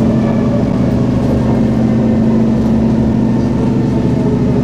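Inside the carriage of a Singapore MRT electric train running on the track: a steady rumble of the train in motion with a constant low hum.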